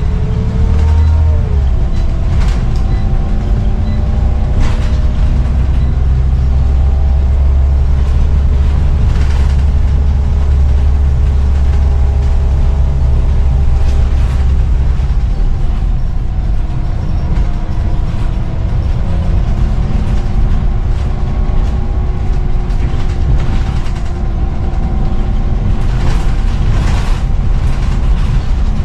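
Scania CN94UB bus running under way: a heavy low engine drone with steady whining tones gliding slowly up and down, and occasional knocks and rattles. The deep drone drops away about halfway through, as the engine eases off or changes gear. It sounds healthy for the bus's age.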